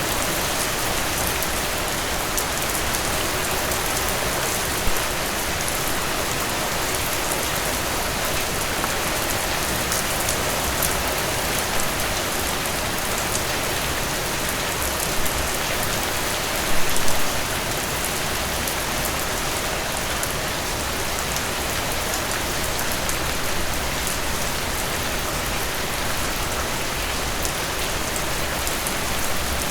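Heavy, steady rain falling on a hard surface, with many distinct drop impacts and a few brief louder splashes, the largest about seventeen seconds in.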